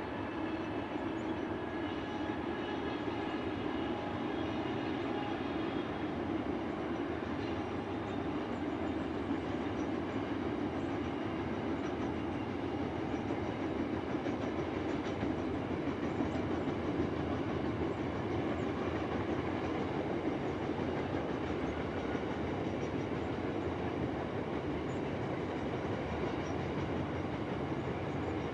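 Qube cement freight train rolling past at a steady speed: continuous wheel-on-rail rumble and clatter of the wagons, with a faint high wheel squeal during the first several seconds.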